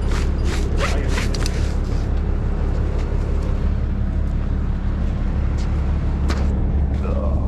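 A truck engine idling steadily, a constant low drone. A few sharp clicks and rattles come over it in the first second or two, and one more near the end.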